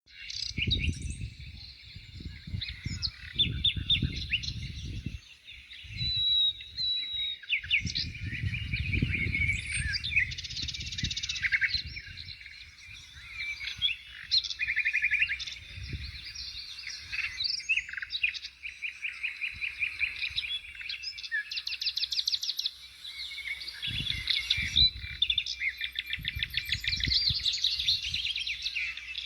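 Several small birds chirping and singing at once, with fast rapid trills among the calls. Low rumbling noise comes and goes underneath, heaviest at the start, around eight to ten seconds in, and near the end.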